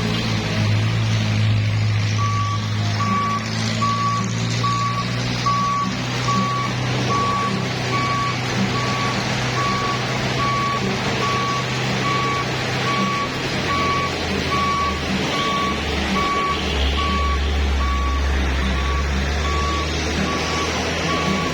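Truck reversing alarm beeping steadily, about three beeps every two seconds, starting about two seconds in, over the truck's diesel engine running. The engine note drops lower about two-thirds of the way through.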